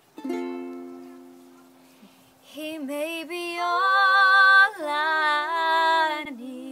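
A single ukulele chord strummed once and left to ring out and fade. Then a young woman's voice sings long held notes with a wavering vibrato, swelling loud before easing off.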